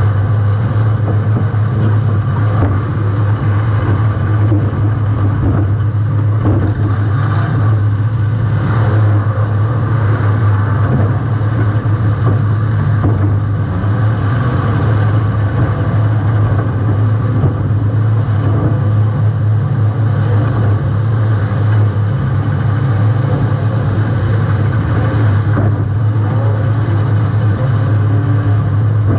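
Welded compact demolition-derby car running, heard from a camera mounted at the rear of the car: a loud, steady low drone. A few short, louder rushes of noise come about seven, nine and twenty-five seconds in.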